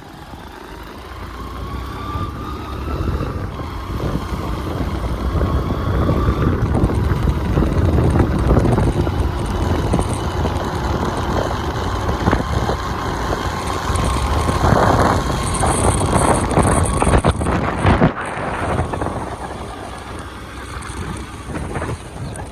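A vehicle's engine running on the move, with wind buffeting the microphone; the rumble builds over the first few seconds and eases off near the end.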